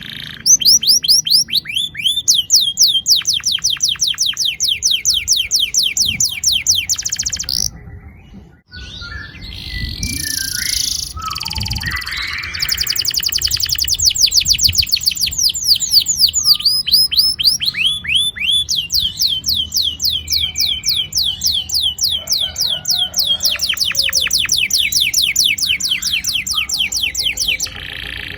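Domestic canary singing long rolling trills: fast runs of repeated downward-sweeping whistled notes. About eight seconds in the song breaks off briefly, gives way to a few seconds of mixed chirps and calls, then the rolls resume.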